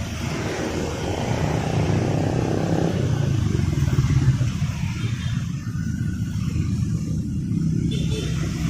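Street traffic: motor vehicles passing with engines running, a continuous drone that swells loudest about four seconds in.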